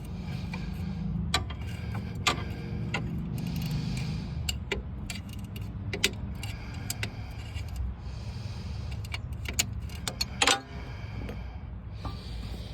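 Metal hand tools clinking and knocking as a wrench works on bolts, with scattered sharp clicks and a louder cluster of knocks about ten and a half seconds in, over a steady low hum.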